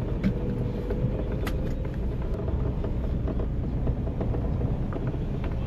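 Tata Nano's small two-cylinder petrol engine running, heard from inside the cabin as a steady low rumble with a few faint clicks.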